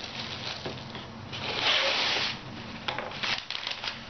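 Rummaging through a mail-order package: rubbing and rustling of packaging, with a louder stretch of scraping about halfway through, then a few small knocks.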